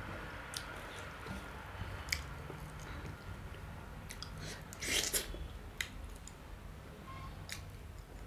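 Close-up eating sounds: chewing with scattered wet mouth clicks and smacks, the loudest cluster about five seconds in, as food is eaten by hand and fingers are licked.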